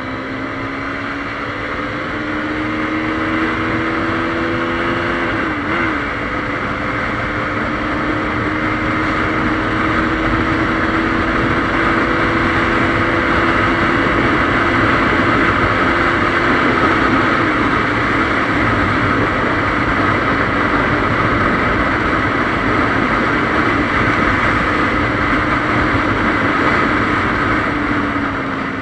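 KTM Duke 390's single-cylinder engine pulling at speed, its pitch climbing slowly with a brief wobble about five or six seconds in, then holding high and easing off near the end, under steady wind rush.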